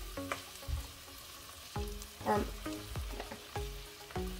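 Ground beef sizzling as it is pushed with a spoon from a glass bowl into a hot stainless steel pot of sautéing onions and vegetables. Light background music with short plucked notes at a steady pace plays along.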